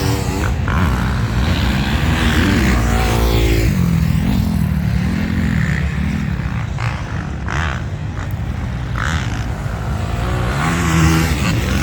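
Motocross bike engine being ridden hard, its pitch climbing and dropping repeatedly as the rider accelerates and backs off, with a steady rush of noise underneath.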